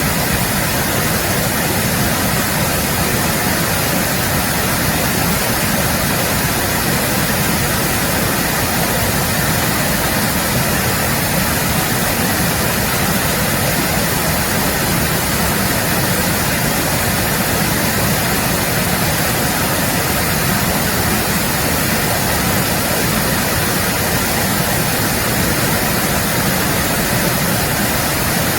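Mountain stream water rushing steadily over rocks, a constant loud roar of flowing water.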